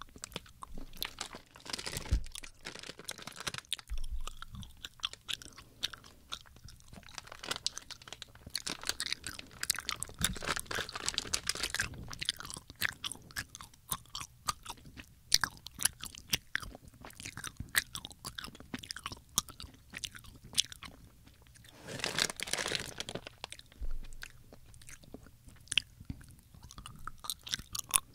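Close-miked chewing of Haribo gummy bears: sticky, wet mouth clicks and smacks in an irregular stream as the chewy gummies are worked between the teeth.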